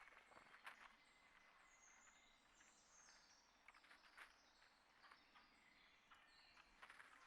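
Faint bird chirps and short high gliding calls, with a few scattered clicks or taps.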